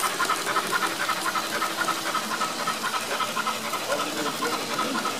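Sound decoder of a Märklin BR 39 HO model steam locomotive playing steady, rapid, evenly spaced steam chuffs from its speaker as the locomotive runs.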